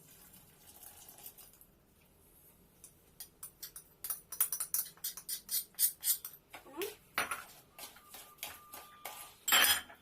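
Kitchen utensils and dishes clinking and knocking. After a quiet start, a run of quick clicks and knocks begins about three seconds in, with a louder clatter near the end.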